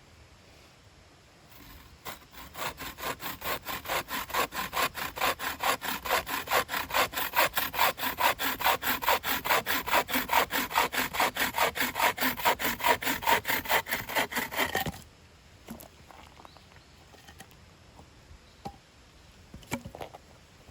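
Hand saw cutting through wood in quick, even strokes, about four a second, for roughly thirteen seconds before it stops abruptly; a few light knocks of wood being handled follow near the end.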